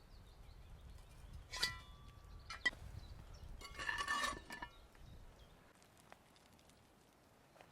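Cookware and utensils clinking: a sharp ringing clink about one and a half seconds in, a short click a second later, then a longer ringing clatter around four seconds in.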